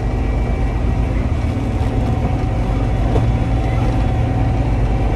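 Combine harvester running steadily while harvesting soybeans: a continuous low engine and machinery drone with a few faint steady whines above it.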